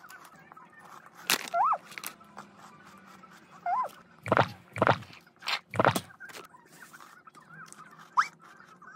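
Crunchy cookie snack being chewed close to the microphone: one crunch about a second in, then four loud crunches between about four and six seconds in.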